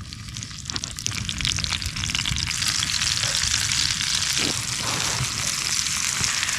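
Filet mignon steaks sizzling in a hot, buttered cast iron pan over a campfire, a dense crackling fry that grows louder over the first two seconds and then holds steady.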